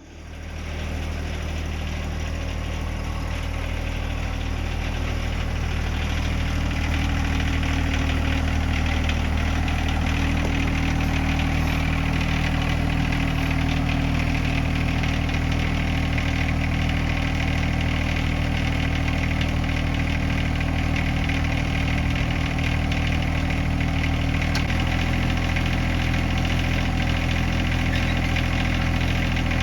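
John Deere 1025R compact tractor's three-cylinder diesel engine running steadily at about idle, its note shifting slightly about 25 seconds in.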